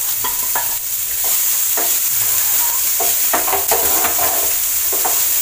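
Onion frying in a tablespoon of hot oil in a pan, a steady sizzling hiss, with repeated scrapes and taps of a utensil stirring it against the pan.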